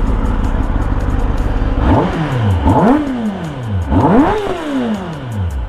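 Kawasaki Ninja ZX-10R's inline-four engine revved twice from idle, the pitch climbing and falling back each time, then settling to idle.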